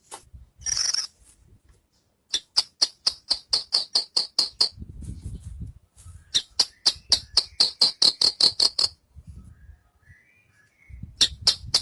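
Javan bush lark (branjangan) singing: a short buzzy note about a second in, then two long runs of rapid, sharp, high repeated notes, about seven a second, over a faint low rumble.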